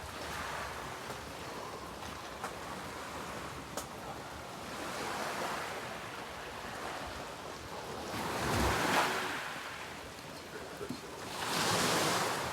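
Waves washing in: a steady rushing noise that swells three times, a few seconds apart, the last two the loudest.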